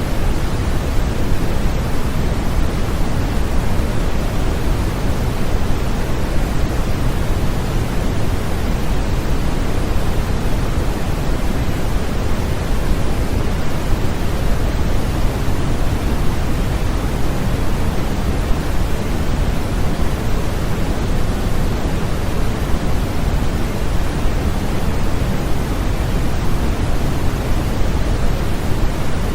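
Continuous white noise for infant sleep: a steady, unbroken hiss that never changes, weighted toward the low end, so it sounds deep and soft rather than sharp.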